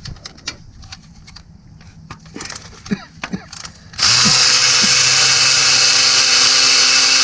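A few light clicks and taps of tools and bolts, then about four seconds in an electric ratchet starts suddenly and runs steadily, spinning out a bolt.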